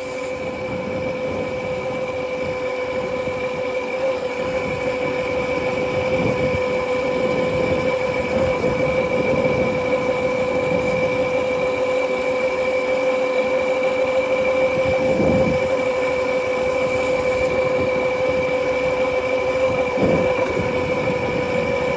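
Motorcycle being ridden at a steady speed: its running note holds one steady pitch over a low road rumble.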